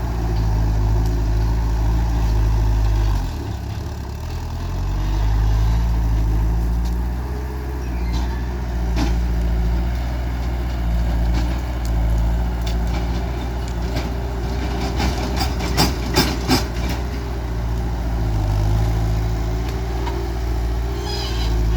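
Skid steer loader's diesel engine running, its low drone dipping and recovering in pitch as the load changes. A quick cluster of sharp knocks comes about three quarters of the way through.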